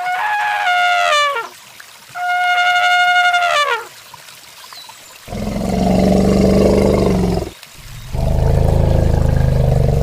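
Farm animal calls: two high, drawn-out calls that fall in pitch at the end, then two long, low calls.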